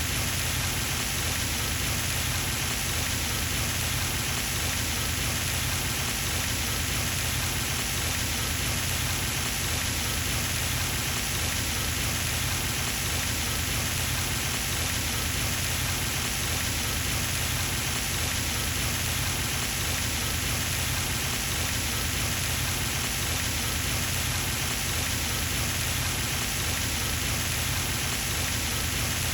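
Pond fountain spray falling back onto the water surface, a steady splashing patter like rain.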